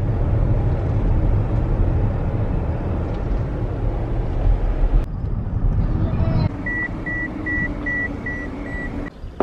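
Car running, a steady low rumble heard from inside the cabin. Near the end, a string of short, even electronic beeps from the car, about three a second.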